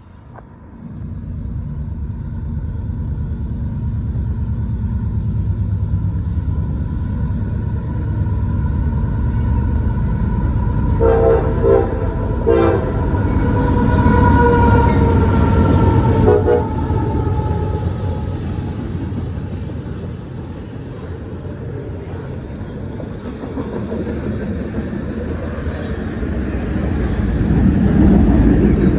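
A train runs by with a heavy low rumble that builds over the first two seconds. Several short horn blasts sound around the middle.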